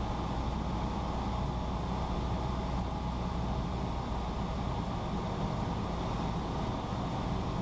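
Steady drone of a Cessna 172's piston engine and propeller in flight, heard from inside the cabin.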